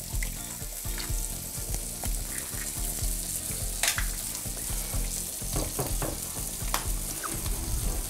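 Steady sizzling of bacon, onion slices, burger patties and a freshly cracked egg frying on a hot teppanyaki griddle plate. A few short clicks and taps come through it, the sharpest about four seconds in, and near the end a spatula pushes the egg across the plate.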